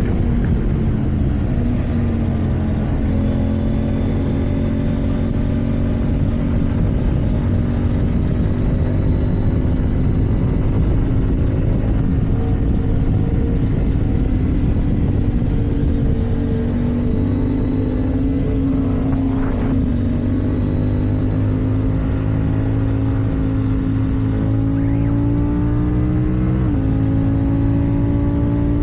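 KTM Duke 790's parallel-twin engine through an aftermarket Akrapovic exhaust, running steadily under way with its note slowly rising, and a brief step in pitch near the end.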